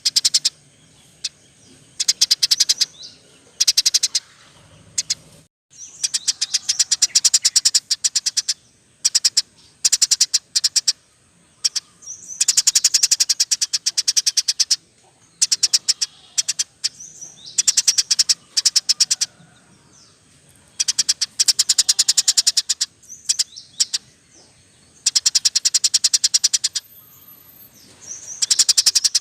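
Small caged songbirds chirping in rapid-fire, high-pitched trills, in bursts of one to two seconds with short gaps between them.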